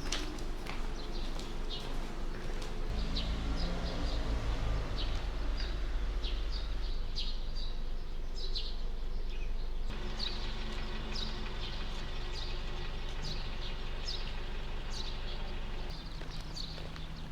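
Small birds chirping repeatedly in short, high, falling calls over a steady low mechanical hum.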